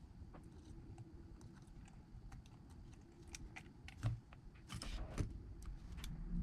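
Small hand tools clicking and tapping against phone parts during disassembly: scattered light clicks, a louder knock about four seconds in, and a short scrape just before the five-second mark.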